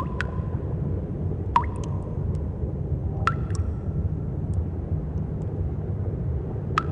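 Cave ambience: water drops plinking into a pool every second or two, some ringing briefly, over a steady low rumble.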